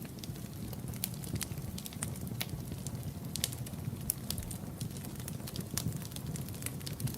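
Wood fire burning in a fireplace: a steady low rumble of the flames with irregular sharp pops and crackles of burning wood.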